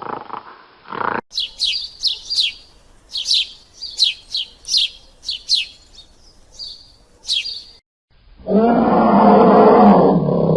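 About a dozen short, high bird chirps, each sweeping downward, in irregular groups. Then the sound cuts to a loud, deep roar from a large animal that starts suddenly and runs to the end.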